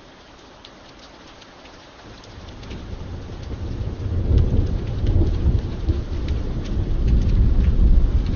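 Steady rain with scattered drops tapping, and a long rumble of thunder that builds from about two seconds in and stays loud through the rest.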